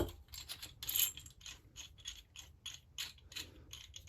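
Light metallic clicks and ticks, about four a second, with a louder clack about a second in, from a homemade double-ended crankcase puller being handled and fitted to a chainsaw crankshaft.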